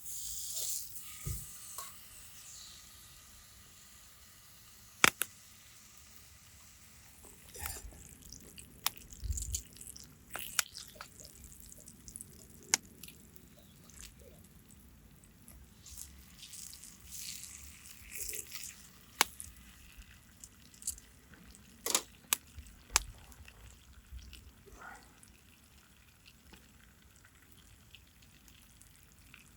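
Camp cooking sounds: a hiss over the first couple of seconds, then scattered sharp clicks and taps.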